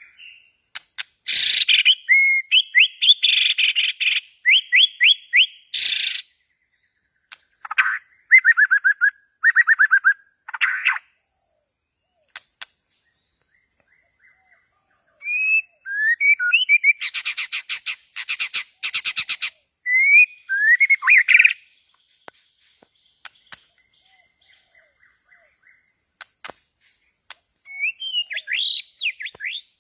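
White-rumped shama singing: loud phrases of rapid whistles, trills and chatter, in bursts separated by pauses of a few seconds, over a faint steady high-pitched drone.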